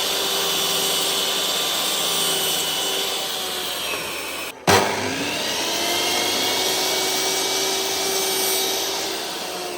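An electric power tool's motor running steadily, with a constant whine over a rushing noise. About halfway it cuts out for an instant and comes straight back in, then eases slightly near the end.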